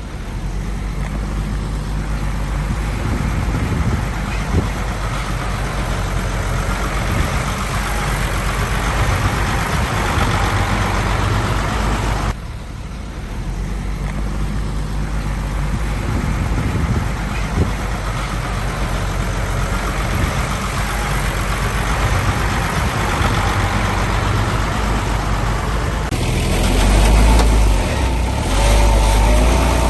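Heavy diesel engines of working trucks running steadily at low revs, with an abrupt cut about twelve seconds in. Near the end the engine gets louder and a wavering whine comes in.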